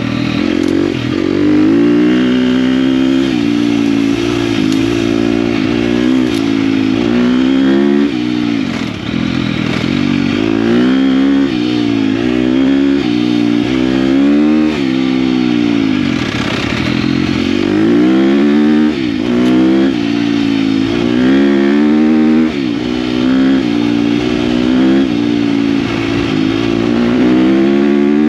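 KTM dirt bike engine being ridden, revving up and dropping back again and again as the throttle opens and closes.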